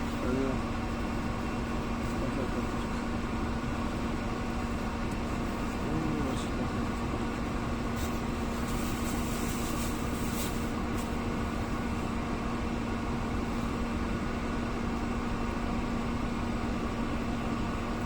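A vehicle engine running steadily: an even drone with a constant low hum, with a few faint high clicks about halfway through.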